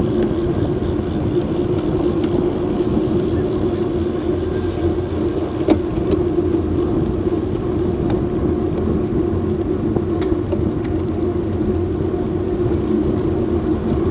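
Steady rushing road and wind noise of a bicycle ride picked up by a bike-mounted action camera, with a sharp click about six seconds in and another about ten seconds in.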